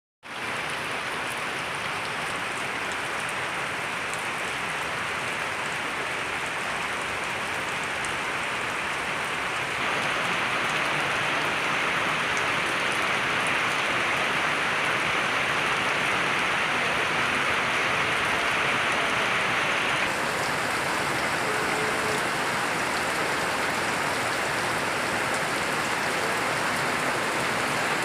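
Steady rain falling: a dense, even hiss with scattered drop ticks. It grows a little louder about a third of the way in and eases slightly about two thirds through.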